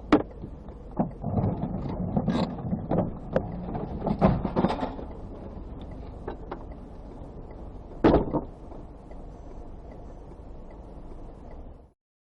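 Car cabin noise picked up by a dashcam: a steady low road rumble with a series of sharp knocks and thumps, the last big one about eight seconds in. The sound cuts off abruptly near the end.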